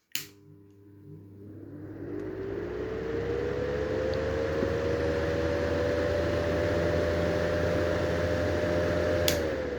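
Clipsal-Airflow exhaust fan with a Garlik EX20 cover, switched on with a click and spinning up. A rush of air builds with a whine that rises in pitch over the first few seconds, then holds steady: a turbine noise. Near the end another click comes, and the whine starts to drop as the fan runs down.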